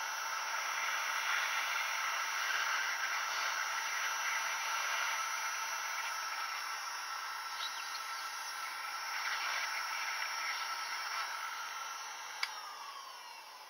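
Steady hiss with a few faint steady tones in it, fading over the last couple of seconds, and one sharp click near the end.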